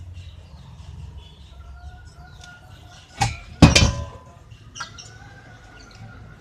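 Two sharp knocks a little over three seconds in, the second louder and longer, then a lighter click, over faint bird chirps.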